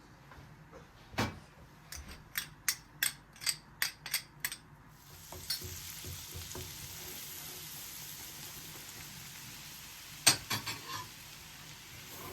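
A string of sharp kitchen clicks and taps, then food frying in a pan: a steady sizzle starts abruptly about five seconds in. A few more clacks of a utensil come near the end.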